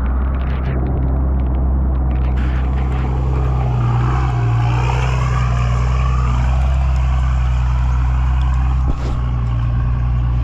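Four-wheel-drive vehicle's engine running steadily with a loud, low drone, with a brief dip about nine seconds in.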